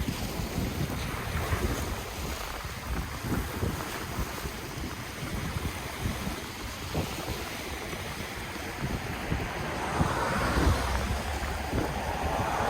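Ocean waves washing on the shore, with wind buffeting the microphone in low gusty rumbles. A wave breaks about ten seconds in and another surges near the end.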